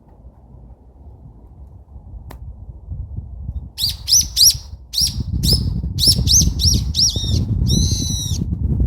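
A bird calling in a quick series of about a dozen high, arched chirps starting about four seconds in, the last note longer. A low rumble runs underneath.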